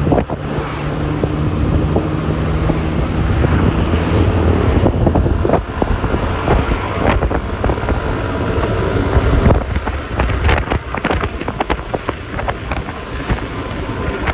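Wind buffeting the microphone of a moving Yamaha Lexi LX 155 scooter, over road noise and the steady hum of its single-cylinder engine. The engine tone is plain for the first few seconds, then sinks under gusty wind and scattered knocks.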